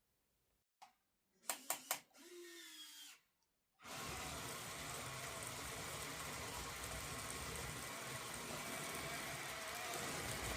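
Small electric motors of a Yigong 1:50 scale RC construction model: a few sharp clicks and a brief gliding whine, then, about four seconds in, a steady whirring noise that keeps on.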